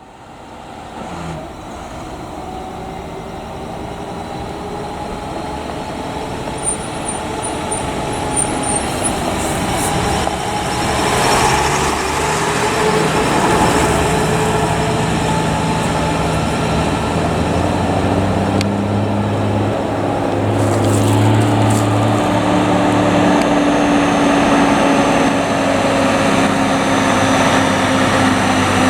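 Heavy diesel truck engine, most likely a fire apparatus, running and growing louder over the first dozen seconds, then holding steady. Its low pitch shifts in steps partway through.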